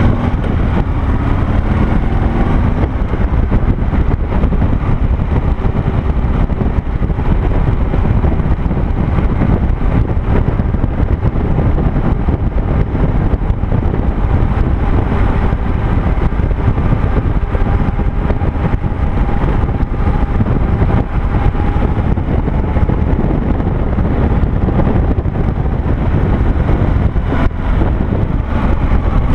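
Harley-Davidson Sportster-based V-twin engine of a dual-sport motorcycle running under way on a trail, a deep steady rumble, its pitch rising over the first couple of seconds as it accelerates.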